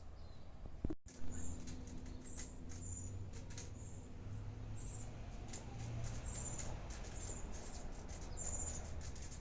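Small garden birds chirping: short, very high chirps repeated about once or twice a second, with a few light clicks and a faint low hum underneath.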